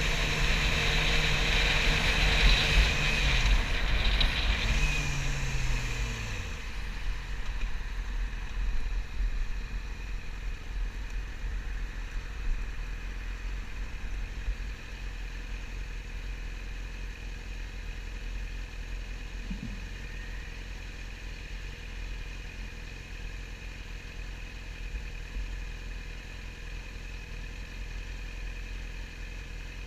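Yamaha YZF-R6 inline-four engine slowing down, its pitch falling over the first several seconds with wind noise on the microphone, then idling steadily.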